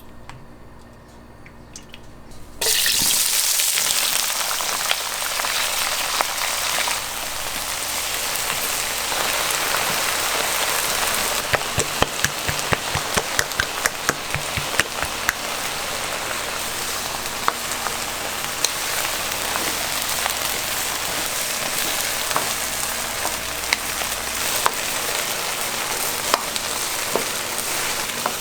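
Food sizzling in hot oil or a hot pan, starting abruptly a few seconds in as a loud steady hiss, with scattered pops and crackles.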